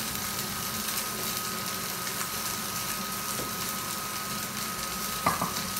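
Fried rice and egg frying in pans on an electric hob: a steady sizzle, with a faint steady tone running through it and a couple of light clicks about five seconds in.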